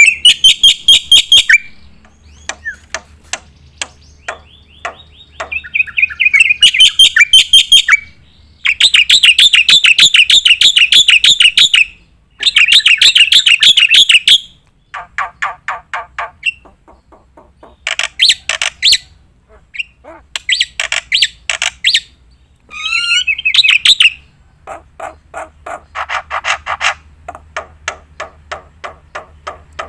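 Black-winged myna (jalak putih) singing loudly in runs of rapidly repeated, harsh chattering notes. The runs come in bursts of one to three seconds with short breaks between them.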